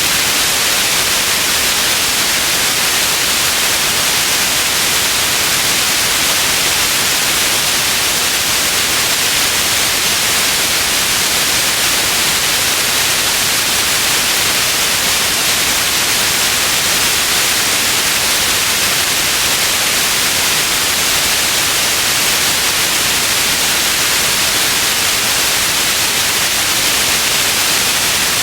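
Steady, unbroken white noise: an even hiss, strongest in the high end, with no change.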